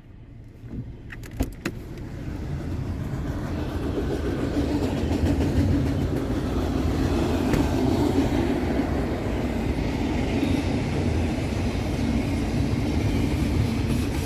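A passing freight train's cars rolling by as a low, steady rumble that builds over the first few seconds and then holds. A couple of sharp clicks come about a second in.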